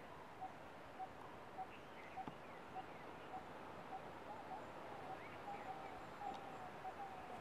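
Wild birds calling. One repeats a short single-pitched note about twice a second, while others chirp higher up, and a longer wavering call joins about halfway through.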